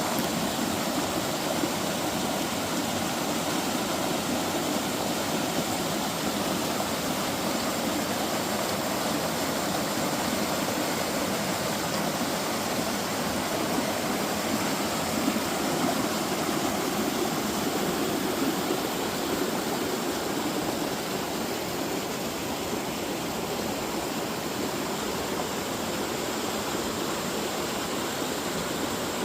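Rushing water of a mountain stream, a steady, even wash of noise with no breaks.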